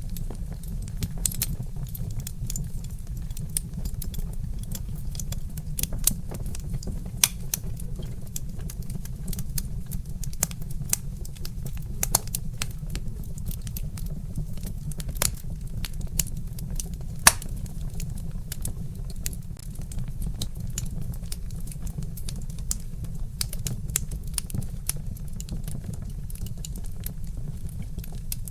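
Wood fire crackling: irregular sharp pops and snaps from burning logs, a few of them louder, over a steady low rumble.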